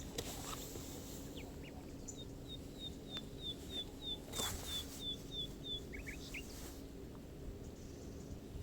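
A songbird repeating a short, high, slightly falling note about a dozen times in a quick even series lasting several seconds, with a few other brief chirps and a couple of soft rustles in a quiet forest.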